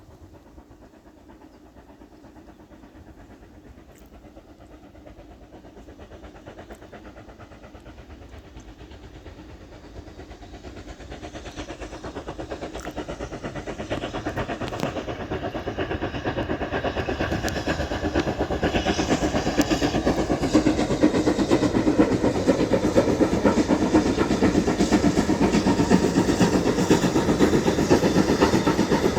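BR Standard Class 9F 2-10-0 steam locomotive approaching with a train, its rapid, even rhythm growing steadily louder throughout.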